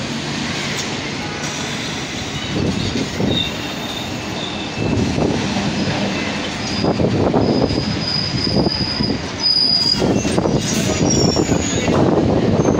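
Mumbai suburban local train (Central Railway EMU) running past along the platform. The wheels rumble and clatter over the track, with short high-pitched wheel squeals throughout, and the rumble grows louder about halfway through and again near the end.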